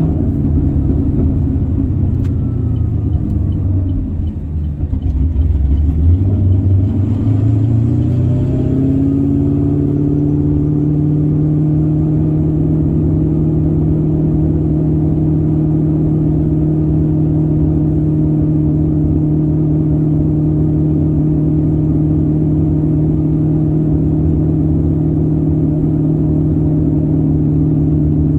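The LS3 V8 of a 2011 Camaro SS, fitted with a large, high-overlap camshaft, heard inside the cabin. It idles low while the car coasts out of gear, rises in pitch from about five seconds in as it takes up drive, and then holds a steady hum cruising at about 2,300 rpm.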